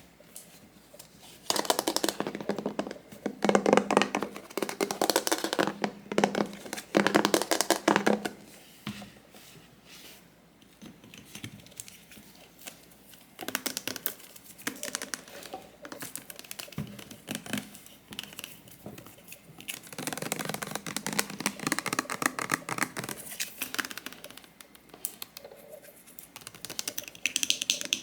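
Crinkling, tearing and rapid tapping of small objects and packaging being handled close to the microphone, in several bursts of a few seconds with quieter gaps between.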